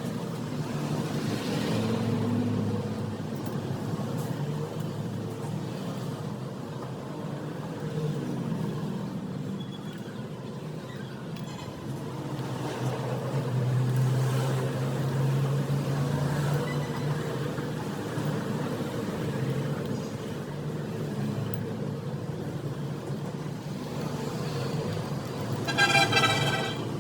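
Steady road-traffic rumble, with a short vehicle horn toot near the end.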